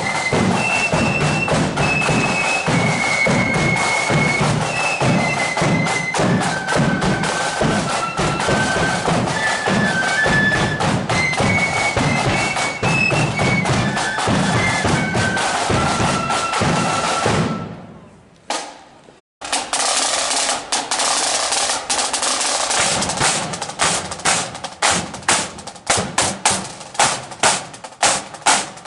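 Marching flute band playing a tune, the flutes' high melody over snare and bass drums. About 17 seconds in the music fades and cuts out. Then the drums play alone, beating steady time with sharp, evenly spaced strikes.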